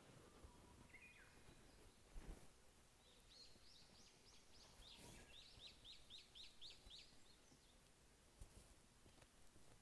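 Japanese bush warbler (uguisu) calling faintly: a short note about a second in, then a rhythmic run of about a dozen quick high chirps lasting about four seconds. A soft knock comes a little after two seconds.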